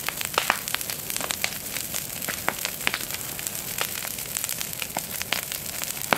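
Large bonfire of dry brush and garden waste burning fast, crackling with many sharp pops over a steady hiss of flame.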